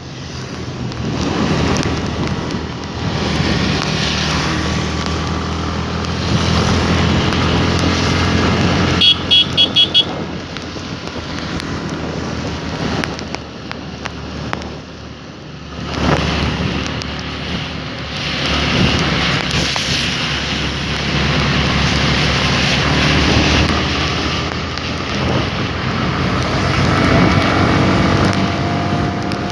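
Motorcycle riding along with its engine running under steady wind and road noise, easing off briefly about two-thirds of the way through. About nine seconds in, a horn gives four quick beeps.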